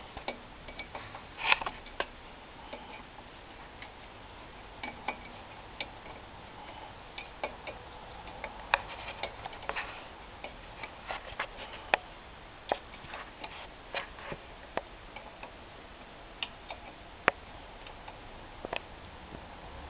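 Scattered, irregular clicks and knocks of hand work on a muffler and exhaust pipe, a sharper knock about a second and a half in, with a low steady background in between.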